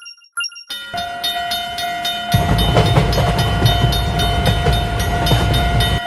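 Cartoon train sound effect: two short beeps, then a steady horn-like tone over a fast, even clatter, with a heavy low rumble of the train running joining about two seconds in.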